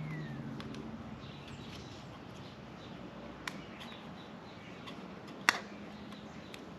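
Small parts being handled, giving a few light clicks and one sharper click about five and a half seconds in, over a faint steady background.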